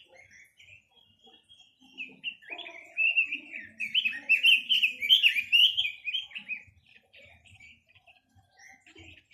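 A quế lâm songbird singing. After a few soft chirps, a loud, rapid, warbling phrase starts about two seconds in and runs to near the seventh second. Softer scattered calls follow.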